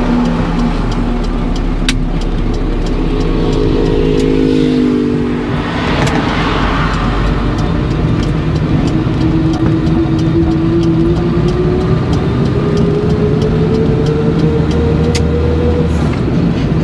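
Car engine heard from inside the cabin as the car pulls away and accelerates, its pitch rising steadily for several seconds, with the turn indicator ticking at an even rate throughout.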